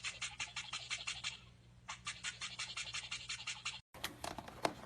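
Toothbrush scrubbing in quick back-and-forth strokes, about eight a second, in two runs with a short pause about a second and a half in. It cuts off abruptly near the end, and fainter scattered clicks follow.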